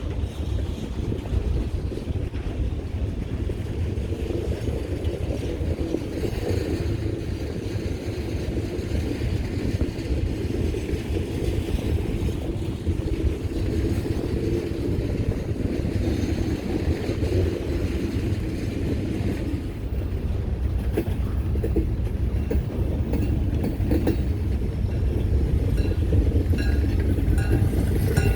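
Pan Am Railways freight train rolling past, the cars making a steady rumble on the rails. From about twenty seconds in, wheels click over the rail joints, with light clinks near the end.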